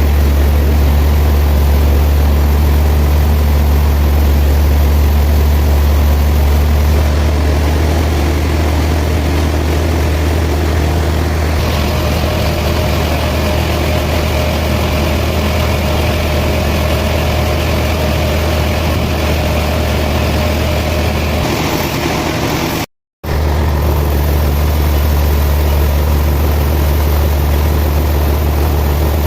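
Sawmill machinery running steadily with a strong low hum. A brief gap about two-thirds of the way through.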